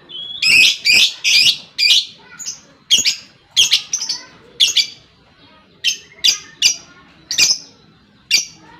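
Lovebird calling: about fifteen sharp, shrill chirps in quick, irregular succession, with a short pause around the middle.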